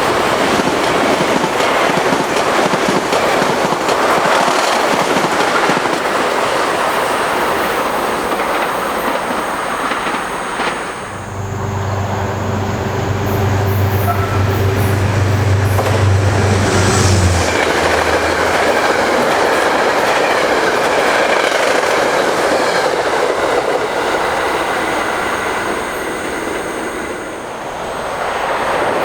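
Trains passing at speed, with a loud, steady rush of wheels on rail. A low steady hum joins in for several seconds in the middle, and the noise eases briefly twice as one pass gives way to the next.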